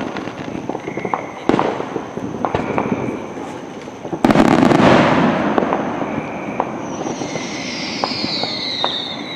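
Aerial fireworks crackling and popping continuously, with one loud, heavy burst about four seconds in and a falling whistle near the end.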